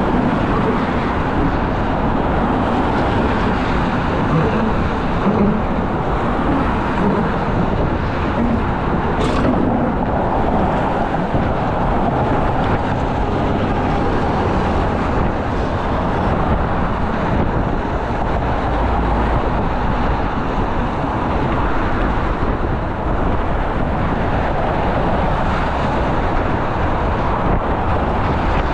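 Steady road traffic noise with no letup, broken about nine seconds in by one brief, sharp high-pitched sound.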